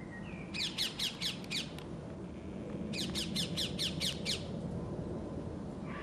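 A bird squawking in two rapid bursts of shrill, falling calls, about six a second, the first starting about half a second in and the second about three seconds in, each lasting a little over a second.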